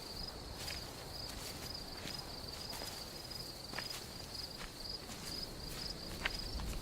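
Crickets chirping in a steady, evenly repeating pulse, with a few faint clicks.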